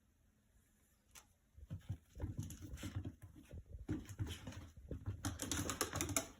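Dog making low, cooing grumbling noises in eagerness for its food, starting about two seconds in and loudest near the end.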